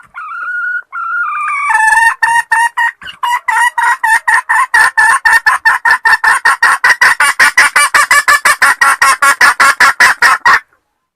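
Female junglefowl calling: a few drawn-out notes, then a long run of short, rapid clucks that speeds up to about five a second and stops abruptly near the end. It is the hen's call to a male.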